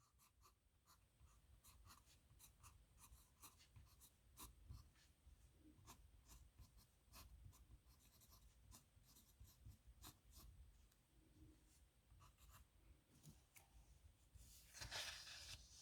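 Dip nib pen scratching on paper in many short, quick strokes. Near the end there is one louder rasp of about half a second.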